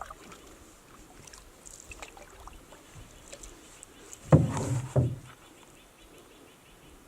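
Canoe being paddled on calm water: quiet paddle dips and small knocks, with two louder paddle sounds about four and five seconds in.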